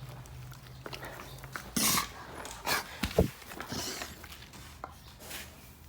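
An American bully dog making a few short breathy noises, with a brief low vocal sound about three seconds in.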